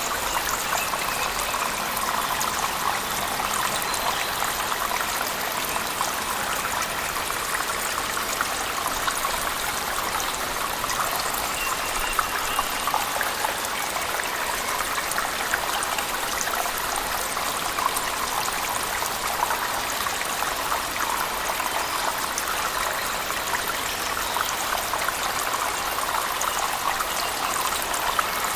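Cave waterfall mixed with heavy rain: a steady, unbroken rush of falling water, dotted with many small drop splashes.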